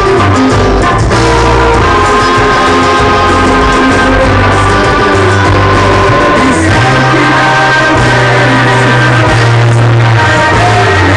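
Cuarteto band playing an instrumental stretch of the song, with held chords over a strong, steady bass line.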